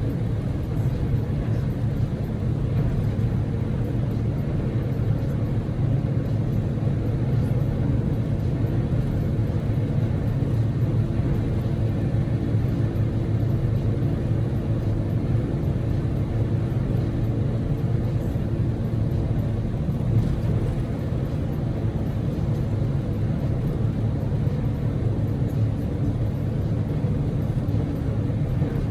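Steady in-cabin driving noise of a Daihatsu Move L150S: a low drone of the small three-cylinder EF-VE engine and tyre and road noise at a constant speed.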